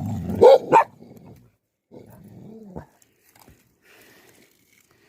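Livestock guardian dog barking twice, loud and deep, under a second in, over a low growl. A softer, falling call follows a couple of seconds later.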